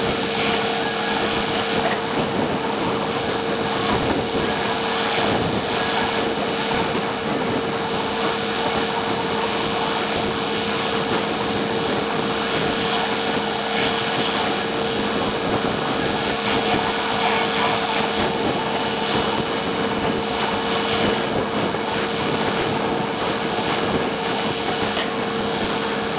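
Tractor pulling a 2022 New Holland baler while baling, engine and baler running at a steady pace, with a constant steady hum.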